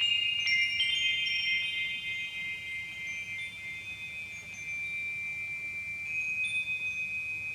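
Wind chimes ringing: a cluster of high struck notes in the first second that hang on and overlap, with another light strike about six seconds in.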